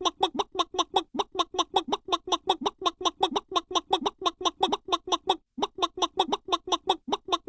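Chicken clucking sound effect: short clucks repeated rapidly and evenly, about five a second, with a brief break about five and a half seconds in.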